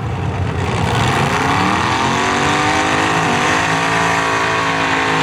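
Drag-racing pickup trucks' engines accelerating hard down the strip: a loud engine note that climbs in pitch over the first second or two, then holds steady.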